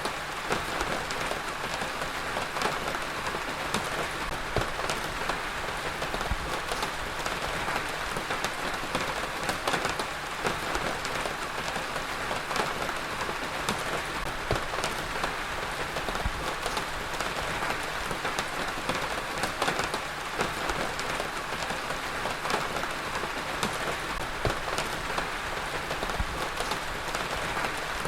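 Heavy rain falling steadily, a dense even hiss of rainfall with many small drop impacts scattered through it.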